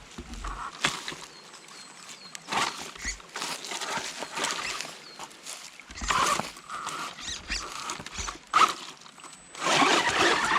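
A WLtoys 104009 radio-controlled car driving in short runs over rocks and gravel. There are irregular crunching, rattling bursts, and the electric motor whines briefly in a few places, once near the start and twice in the second half.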